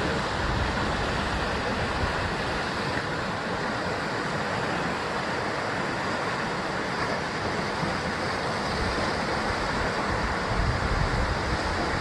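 Sea waves washing and breaking against a rocky shore in a steady roar, with low rumbling swells about a second in and again near the end, and some wind on the microphone.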